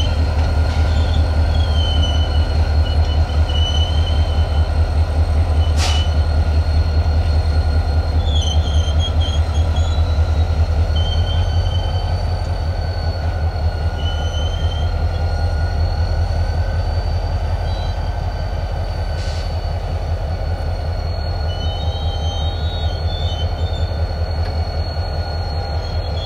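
QNS&L train running on the rails: a steady low rumble with short high wheel squeals that come and go every few seconds, and two faint knocks, about six seconds in and near twenty seconds in.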